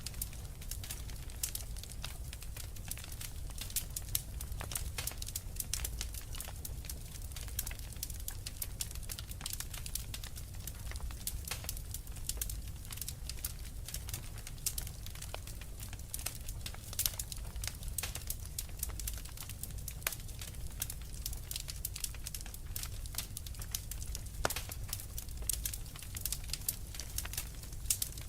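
Wood fire crackling, with a dense, irregular run of small sharp pops and snaps over a steady low rumble.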